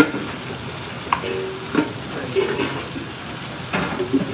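Food frying and sizzling in a pan, with a few sharp knocks and clinks of utensils against cookware.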